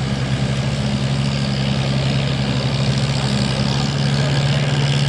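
Farm tractor engine in a tractor pull, running steadily under load at an even pitch as it drags the weight sled down the track.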